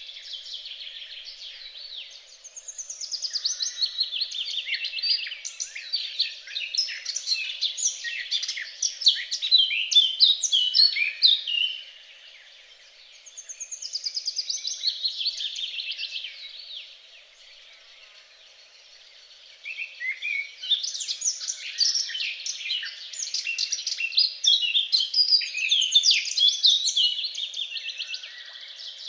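A songbird singing long, rapid, varied songs of high trills and chirps, in three bouts with short pauses between them.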